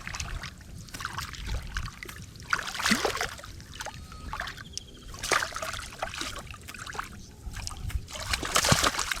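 Water splashing and sloshing in irregular bursts, with trickling in between.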